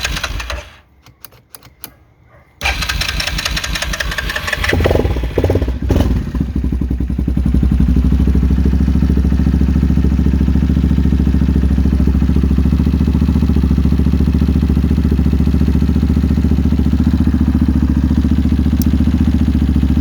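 2001 Yamaha Kodiak 400 ATV engine, a single-cylinder four-stroke, being cranked, stopping about a second in, cranking again, then catching after about five seconds and idling steadily. The engine, which a shop had called seized, starts and runs.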